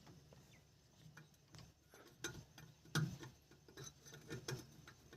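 Faint, irregular clicks and taps of small plastic parts being handled as an LED bulb's cap is fitted into a tractor headlight housing.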